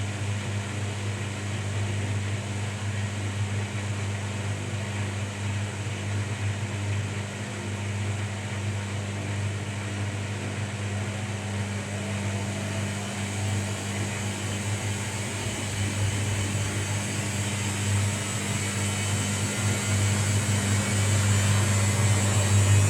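Washing machine running with a steady low motor hum; from about halfway a faint whine rises in pitch and the sound grows louder toward the end as the drum picks up speed.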